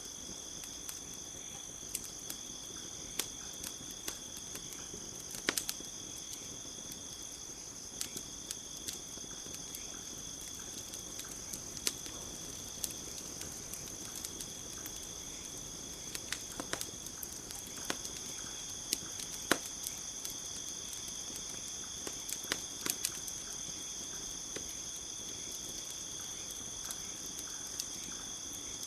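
Campfire crackling with irregular sharp pops, over a steady high-pitched chorus of night insects such as crickets.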